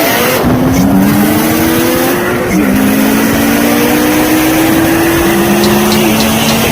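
Car engine pulling under acceleration, its pitch climbing steadily and dropping at two upshifts, about two and a half and six seconds in, over steady road and tyre noise.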